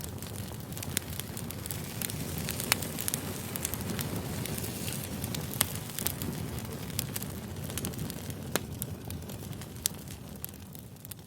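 Campfire burning: a steady low rush of flames with sharp crackles and pops throughout, a few of them much louder than the rest.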